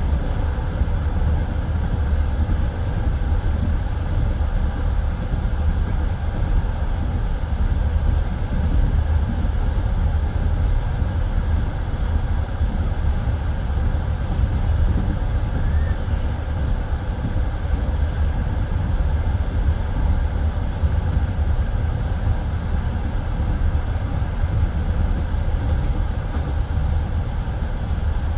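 Passenger train carriage rolling at speed between stations, heard from inside the car: a steady, dense rumble of wheels on rails.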